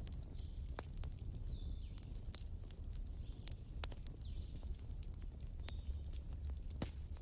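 Wood fire crackling: irregular sharp pops and snaps, a dozen or so, over a steady low rumble of the burning, with a few faint short high whistles in between.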